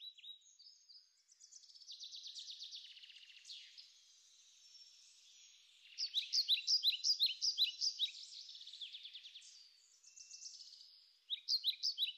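A small songbird singing: a fast trill in the first few seconds, then runs of quick, repeated down-slurred chirps, about three a second, starting about six seconds in and again near the end.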